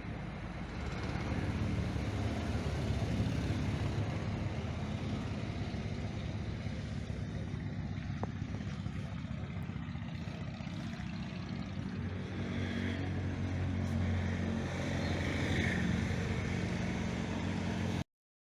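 Motor vehicle engine running steadily with road noise. The sound cuts off suddenly near the end.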